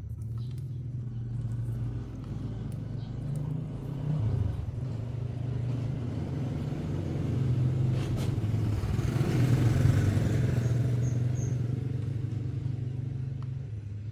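A vehicle's steady low motor hum, growing louder toward the middle and easing off near the end, with a single sharp click partway through.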